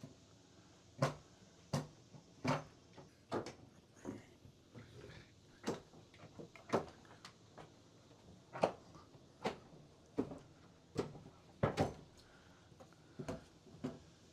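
Repeated sharp knocks on wooden dock boards, mostly about a second apart with a few short pauses, during work on the dock.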